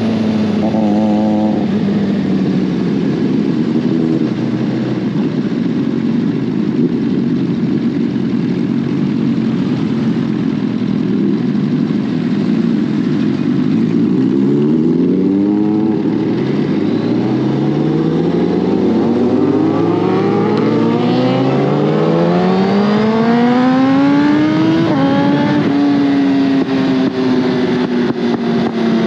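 Inline-four superbike engine running at a steady cruising speed over wind rush. From about halfway it accelerates, its pitch climbing in several rising pulls, then settles after a gear change near the end.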